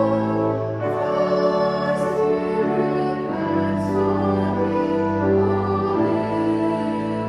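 Slow church music of long held chords that change every second or so.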